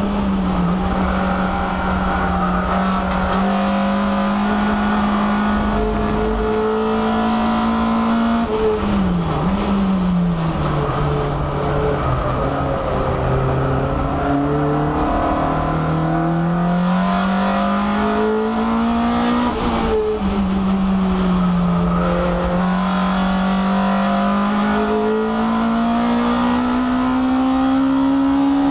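Peugeot 306 race car's four-cylinder engine heard from inside the stripped cabin at racing speed. Its pitch holds steady, dips and recovers sharply about nine seconds in, stays low for several seconds, then climbs as the car accelerates. It drops suddenly near twenty seconds in at a gear change and then climbs steadily again.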